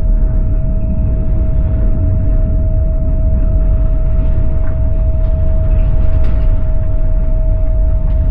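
Passenger train running along the track, heard from inside the carriage: a steady low rumble with a constant mid-pitched hum over it.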